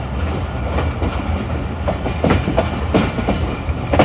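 Passenger train cars rolling on the track: a steady low rumble with irregular clicks and clunks as the wheels pass over rail joints and points.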